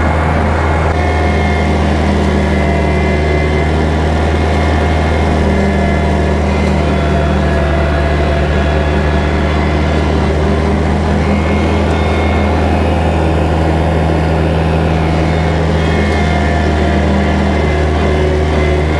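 Kubota tractor's diesel engine running steadily, at a constant pitch, while pulling a bush hog rotary cutter.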